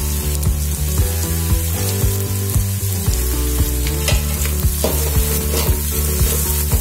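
Chopped onions and coriander sizzling in hot oil and butter in a steel pan, stirred with a spoon at first, under background music with a steady bass beat.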